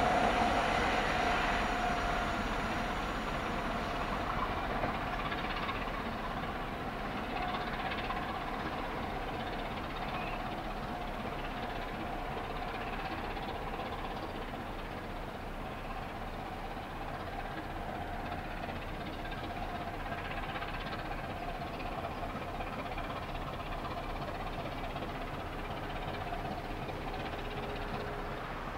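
A train pulling away into the distance, its running noise fading over the first few seconds to a faint, steady rumble.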